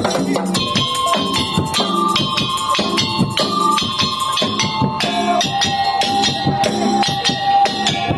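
Madurese tong-tong (daul) band playing: a dense rhythm of drums and jingling percussion under a melody of long held notes that steps down to a lower held note about five seconds in.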